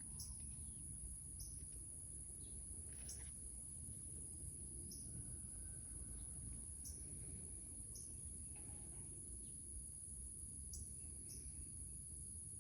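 A steady, unbroken high-pitched insect chorus over a low background rumble, with a few faint clicks and rustles.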